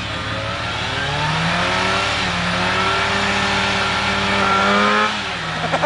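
Suzuki Samurai's four-cylinder engine revving hard under load as it pushes through deep muddy water, its pitch climbing for about four seconds and then dropping back about five seconds in.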